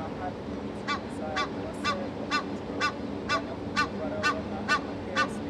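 A bird calling over and over in short honking notes, about two a second, starting about a second in and stopping near the end.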